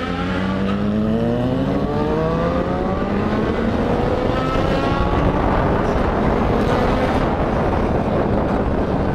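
Motorcycle engine accelerating away, its pitch rising steadily for about five seconds, with wind rushing over the helmet microphone more and more as speed builds.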